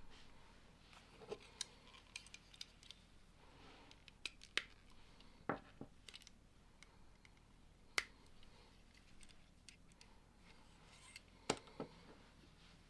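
Plastic Lego bricks being handled and snapped together: a string of separate sharp clicks and small taps, the sharpest about eight seconds in and again near the end.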